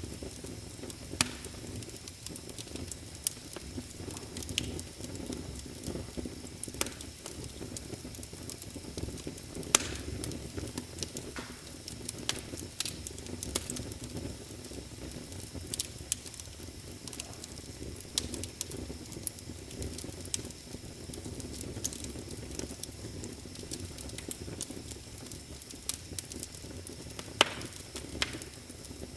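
Wood fire crackling in a fireplace: irregular sharp pops and snaps over the low, steady rumble of the burning logs, with a few louder pops, the strongest about ten seconds in.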